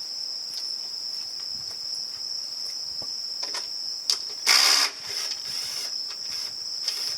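Steady, high-pitched chorus of crickets, with a few sharp clicks and a short, loud noise burst about halfway through.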